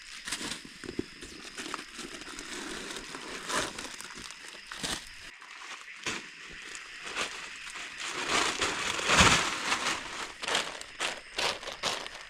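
Irregular crinkling and rustling with many scattered sharp clicks, busiest and loudest about eight to ten seconds in.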